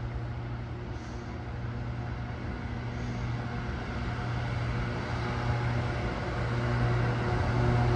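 Caledonian Sleeper train approaching, its locomotive giving a steady low hum with a few higher tones, growing gradually louder.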